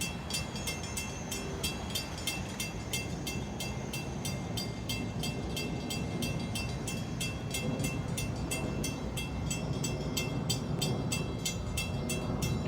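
Long Island Rail Road diesel-hauled train running, a steady low rumble.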